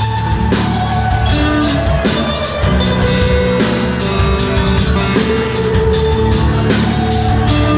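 Live rock band playing: electric guitar and bass holding notes over a drum kit, with steady hi-hat or cymbal strokes a little under four a second.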